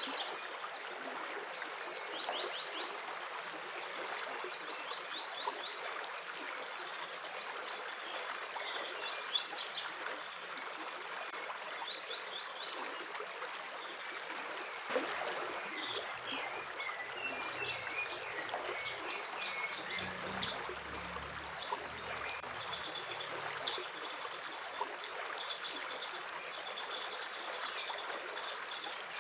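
Running water of a stream, a steady rush, with songbirds calling over it: a few short rapid trills in the first half, then busier overlapping chirping from about halfway on.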